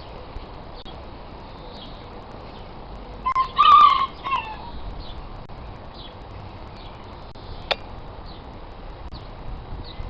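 Birdsong outdoors: short high chirps repeating about once a second, with one louder pitched call in three parts about three to four and a half seconds in.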